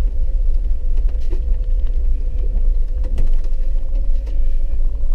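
Inside a vehicle driving a dirt road: a loud steady low rumble from the engine and tyres, with a steady hum and a few faint knocks.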